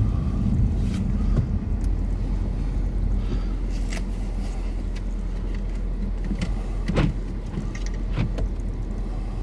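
Low steady rumble of a patrol car's engine heard from inside the cabin, with a few scattered clicks and knocks; the loudest knock comes about seven seconds in.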